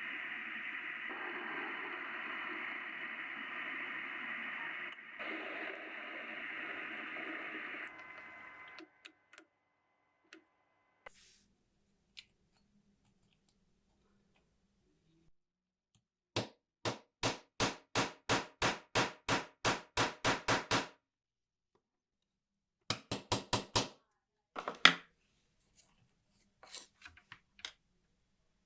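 A steady hissing noise for about eight seconds, then scattered small clicks and a run of evenly spaced mechanical clicks, about four a second, followed by a quicker cluster of clicks and one sharp, loud click.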